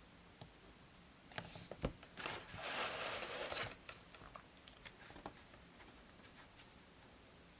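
Desk work with paper and stationery: a few light taps and clicks, and a paper rustle lasting about a second and a half a little after two seconds in.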